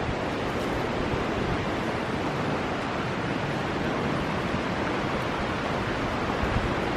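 Steady rushing roar of the fast-flowing Niagara River, with no breaks or single events standing out.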